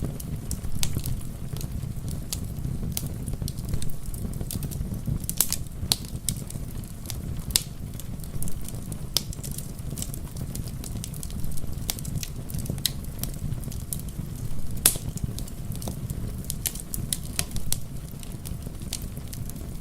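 Wood fire crackling, with irregular sharp pops and snaps over a steady low rumble; the loudest pops come about five and fifteen seconds in.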